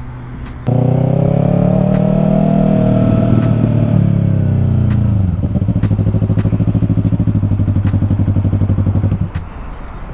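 Motorcycle engine running close by: it starts loud, its pitch sinks about five seconds in, then it settles into an even, rapid pulsing before cutting off suddenly near the end.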